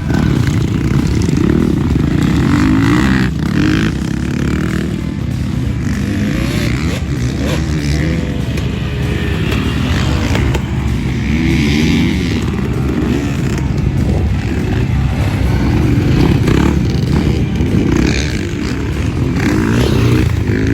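Motocross dirt bike engine ridden hard around a track, its revs rising and falling over and over through the gears and corners.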